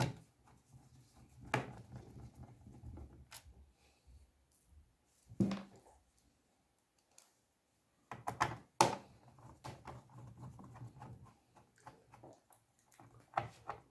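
Small screws being driven into a plastic laptop case during reassembly: scattered clicks and knocks of the screwdriver and the case being handled, with a faint low hum in two stretches.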